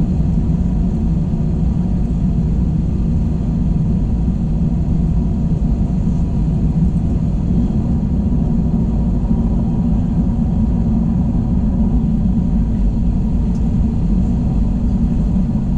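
Steady low rumble of an Airbus A321's engines and airflow heard inside the passenger cabin, with no change in pitch or level.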